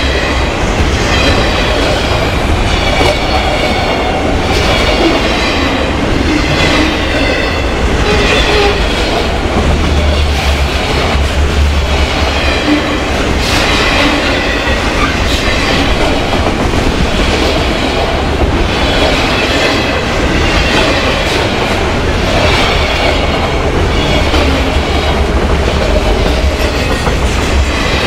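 Autorack freight cars of a long train rolling past at trackside: a loud steady rumble, with a beat of passing wheel sets about once a second and a high metallic squeal that rises and fades with each one.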